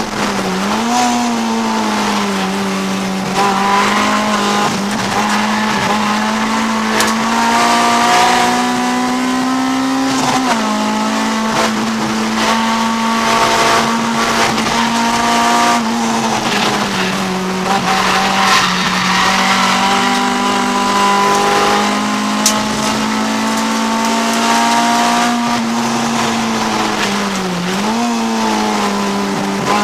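Honda CRX's B20 VTEC four-cylinder engine running hard at high revs under race load, heard from inside the cabin. The revs drop briefly and pick up again about half a second in, around ten seconds in, and near the end.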